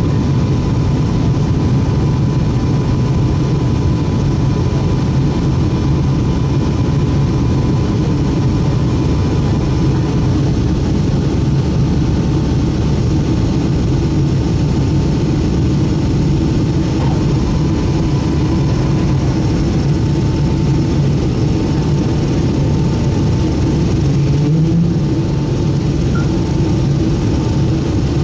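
Boeing 757-200 jet engines running steadily: a loud, even rumble with a faint, steady whine above it.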